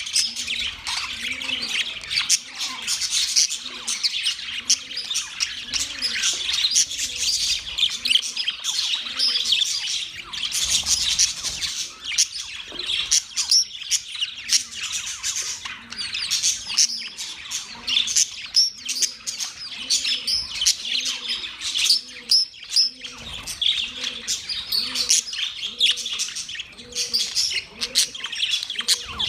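A flock of budgerigars chattering and chirping continuously, many quick overlapping high calls with the odd squawk. A fainter low note repeats about once a second underneath.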